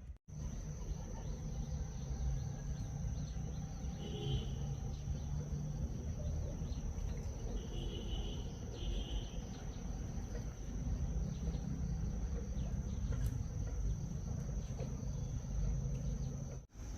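Steady, high-pitched shrilling of insects such as crickets, over a low rumble, with a few short chirps about four and eight seconds in.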